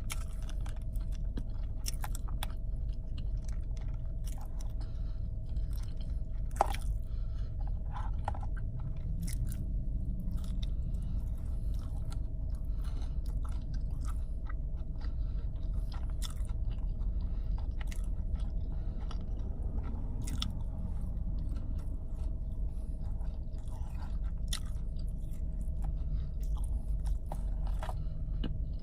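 A person chewing and biting breaded chicken nuggets close to the microphone, with small wet mouth clicks throughout, over a steady low hum and a faint steady tone.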